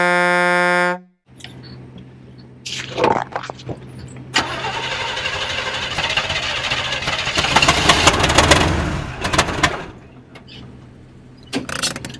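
A car horn blast ending about a second in, then a vehicle engine starting and running, its noise swelling to a peak around eight seconds before dropping away near ten seconds.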